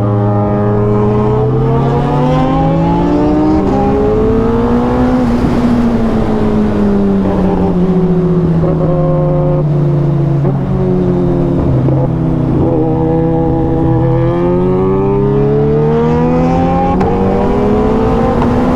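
Superbike inline-four engine running under load while riding. Its pitch rises and falls slowly and smoothly several times as the throttle is rolled on and off.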